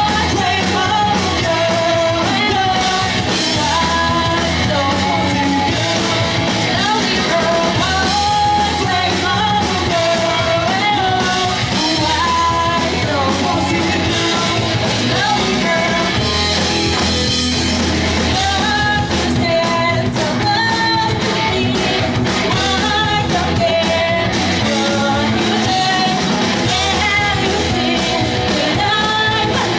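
Live pop-punk band playing loud and steady: distorted electric guitars, bass and drums, with a lead vocalist singing over them.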